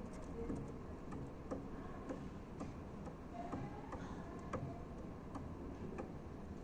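White-winged dove pecking at dog food: irregular sharp clicks, roughly two a second, over a low steady background hum.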